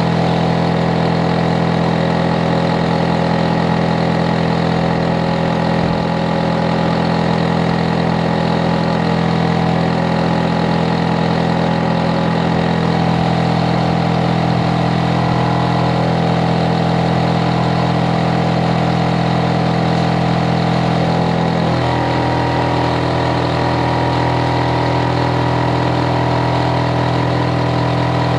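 Hitachi air-conditioner outdoor unit running with a loud, steady drone made of several hum tones. About three-quarters of the way through, the hum changes abruptly to a new set of tones and holds there.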